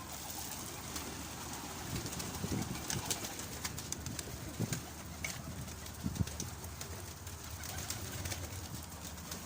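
Domestic pigeons cooing now and then, low short coos, over faint clicks and rustling.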